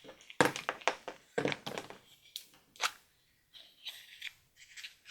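Toy-surprise packaging being torn open by hand: a run of irregular crinkling and tearing crackles, loudest in the first three seconds.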